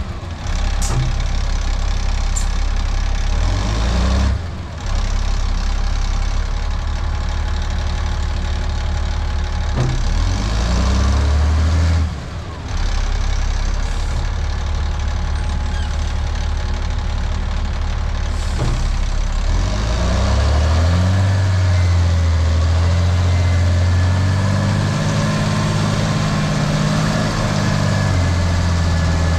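Off-road haul truck's engine running under load, its note rising and falling as it is throttled, with a longer raised, higher note in the second half as the truck struggles in the slippery rut.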